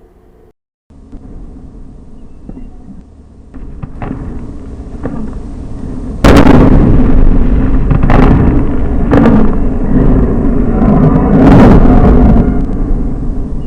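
Rocket explosion: a low rumble builds, then a sudden loud blast about six seconds in, followed by several more sharp cracks over a continuous heavy roar.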